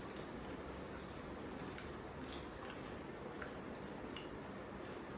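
Quiet eating sounds: chewing and a few faint small clicks over a steady background hiss.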